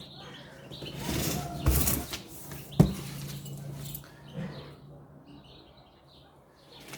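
A cardboard speaker carton being handled and turned over: uneven rustling and scraping, with one sharp knock about three seconds in.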